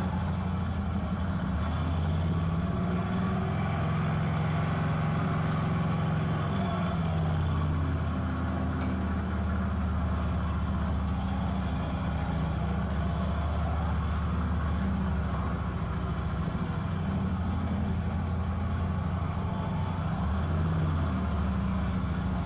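Police motorcycle engine running at low speed, its pitch stepping up and down every few seconds as the rider works the throttle on a motorcycle training course.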